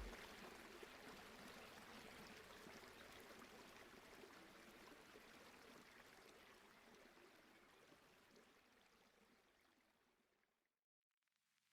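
Faint trickle of water from a hang-on-back aquarium filter, fading out gradually to near silence.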